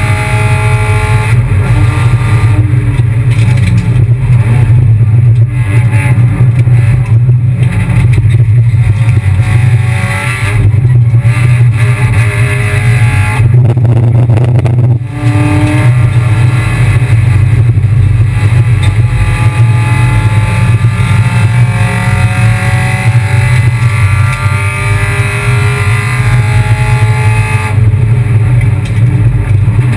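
Kia Picanto race car's engine running hard under racing load, its pitch climbing steadily through the revs and dropping back at each gear change. About halfway through there is a brief break with a short dip in loudness before the engine pulls again.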